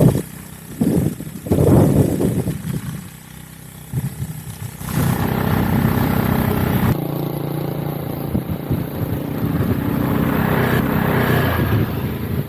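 Motorcycle engine running while riding, with irregular rushes of noise in the first few seconds; the engine note settles into a steady hum about five seconds in.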